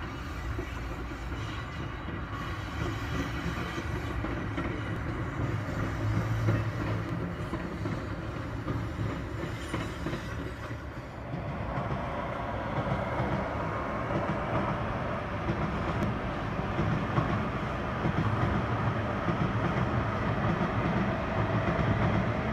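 Trains running past on the tracks below: a JR Central 313-series electric commuter train rolling by, then from about halfway through N700-series Tokaido Shinkansen trains passing with a louder, steady rushing sound.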